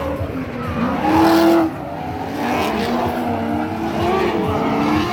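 Drift cars on track: engines revving, their pitch rising and falling over one another, with tires screeching. The loudest rev comes about a second in.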